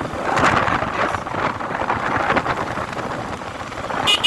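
Wind rushing over the microphone with road noise from a motorcycle riding along a wet highway. A short high beep sounds near the end.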